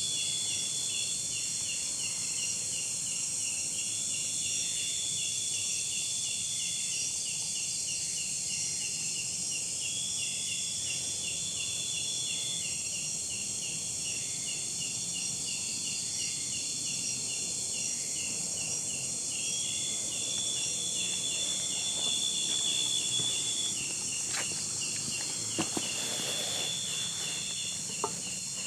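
Dense chorus of insects: an evenly repeating chirp under a higher trill that stops and starts every few seconds. A few light knocks come near the end.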